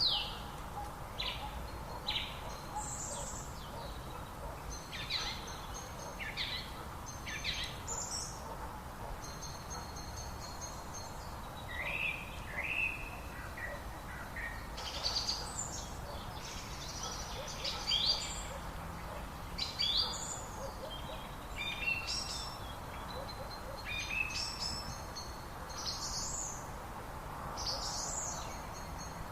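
Several wild birds singing and calling, a busy run of short chirps and quick sweeping notes, over a steady low background hiss.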